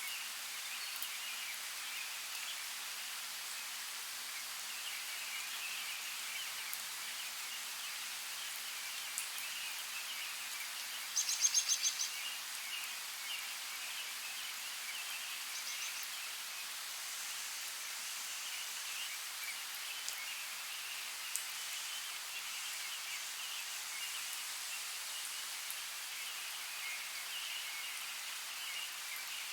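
Steady rain, an even hiss. A bird gives a quick trill about eleven seconds in and a shorter chirp a few seconds later.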